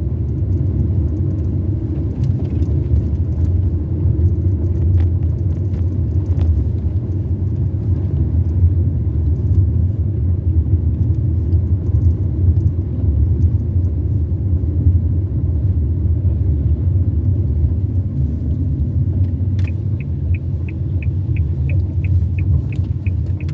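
Steady low rumble of a car's engine and road noise heard from inside the moving car. From about 20 seconds in, an evenly paced ticking of about three ticks a second joins it, like a turn-signal indicator.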